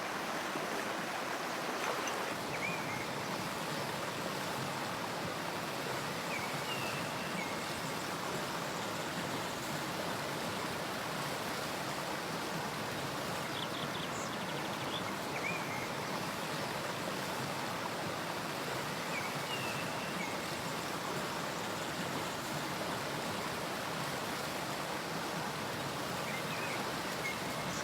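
River stream flowing with a steady rush of water. A few faint short chirps sound over it now and then.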